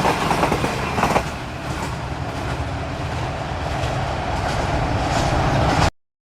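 Train hauled by an HGMU-30 diesel locomotive running past: a steady rumble of wheels and rail noise, busier for the first second, then cut off abruptly to silence near the end.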